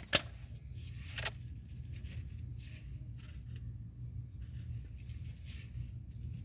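A sharp click just after the start and a softer one about a second later, then a few faint ticks, over a steady thin high-pitched whine and a low hum.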